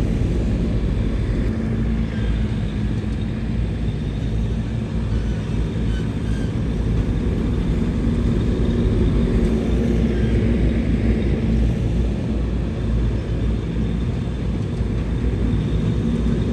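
Heavy earthmoving equipment's engine running steadily with a low rumble.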